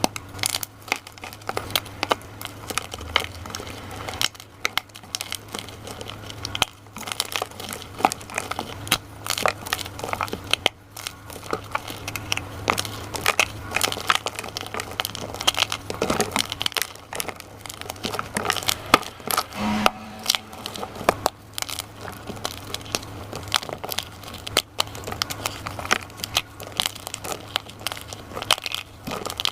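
Crunchy dyed gym chalk being crushed and crumbled, a dense unbroken run of small crackles and snaps, over a steady low hum.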